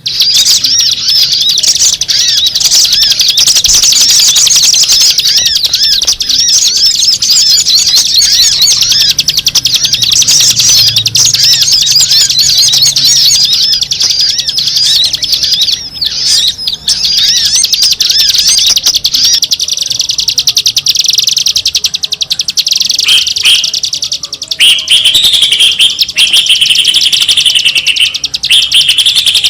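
Bird-lure recording of many small birds chirping and twittering in a dense, loud, unbroken chorus. About two-thirds of the way through, a lower run of short repeated chirps takes over.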